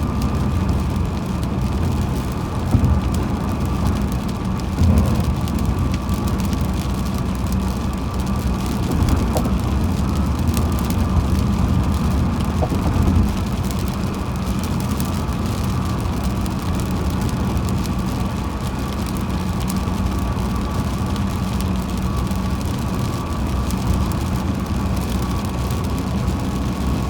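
A car driving on a highway, with steady engine and road noise and a constant faint tone throughout. A few short bumps stand out in the first half.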